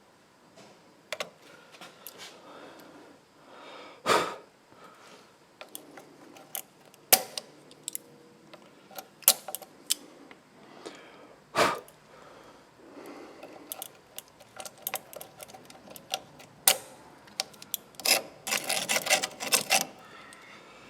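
Metal hand tools clicking and knocking on a rusted, seized exhaust manifold stud: scattered sharp ticks, a few louder knocks, and a quick run of clicks near the end.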